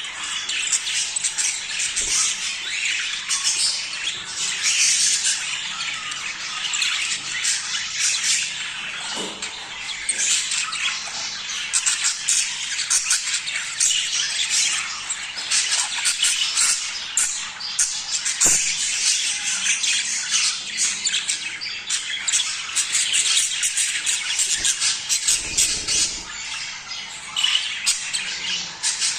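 A flock of budgerigars chattering and squawking without a break, many birds calling over one another in quick, high-pitched warbles and chirps.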